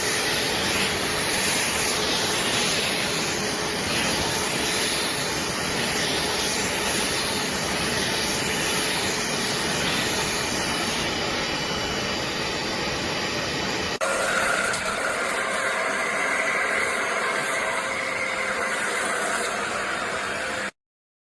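BISSELL Little Green portable carpet and upholstery cleaner running, a steady motor and suction noise. The tone changes abruptly about two-thirds of the way through, then the noise cuts off suddenly just before the end.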